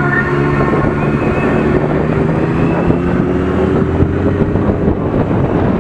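Superbike engine running at a steady cruising speed under way, with wind on the microphone; its pitch rises a little around the middle.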